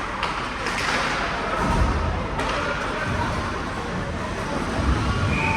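Game ambience in an arena: crowd and player chatter, with sharp knocks about a quarter second and two and a half seconds in and a few low thuds. A short steady high tone begins near the end.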